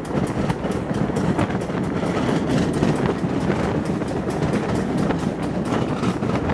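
Passenger coaches running at speed, heard from an open carriage window: a steady, loud rumble of wheels on the rails.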